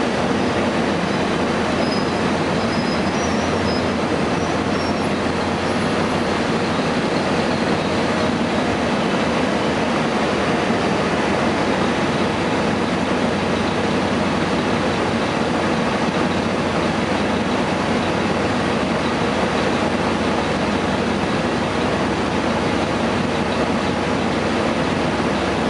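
2004 Gillig Phantom transit bus under way, its Cummins ISM diesel and the road noise making a steady, even rumble with no change in pitch. A few faint high squeaks come in the first few seconds.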